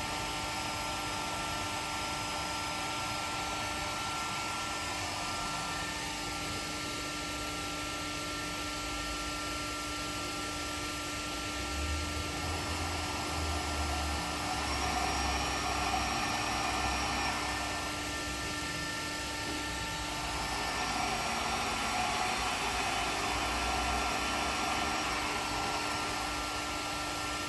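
MATEC 50 HV/NC five-axis CNC machining centre running, a steady hum carrying several whining tones. About twelve seconds in, and again about twenty seconds in, a louder whirring with a low rumble comes in and lasts several seconds each time.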